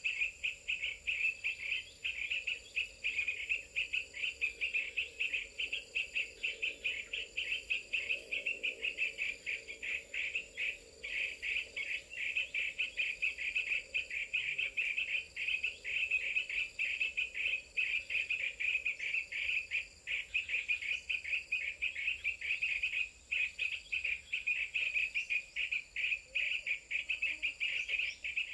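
Continuous fast chirring trill, insect-like, with a steady high thin note above it and bird calls mixed in.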